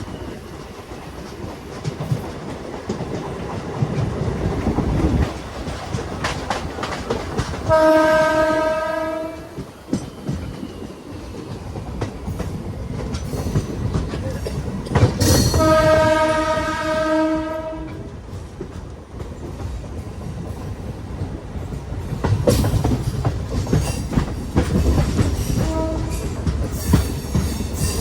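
A train running on the track with a steady rumble and wheel clatter. The locomotive horn sounds twice, once about eight seconds in for over a second and again around fifteen seconds in for about two seconds, with a short toot near the end.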